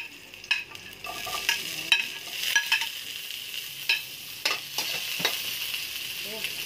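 Chopped garlic sizzling in hot olive oil in a metal wok, with a spatula clicking and scraping against the pan as it is stirred. Chopped onion goes in partway through.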